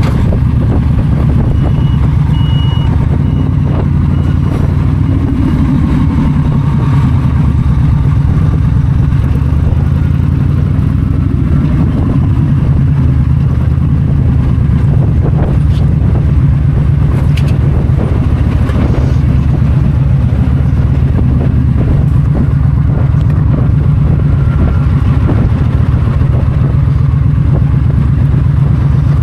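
Yamaha V-Star 1300's V-twin engine running at a steady cruising speed, with wind noise from riding.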